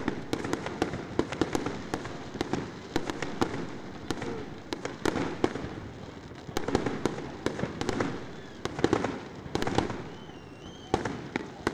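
Aerial fireworks bursting overhead: a dense, irregular run of sharp bangs and pops.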